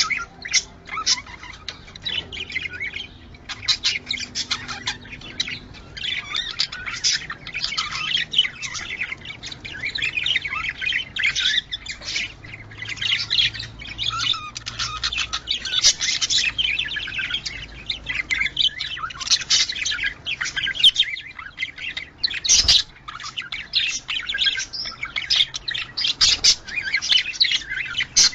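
Budgerigars chattering with rapid, continuous chirps, warbles and squawks. This is the excited breeding-season chatter used to get budgies into breeding condition. A single sharp click comes about three-quarters of the way through.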